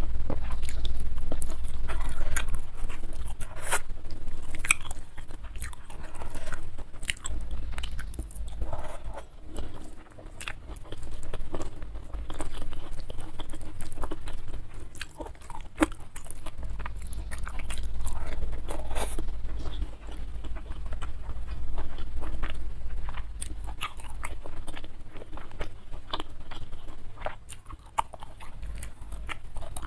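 Close-miked chewing of hand-fed mouthfuls of boiled fish, rice and petai, with frequent sharp crunches and clicks.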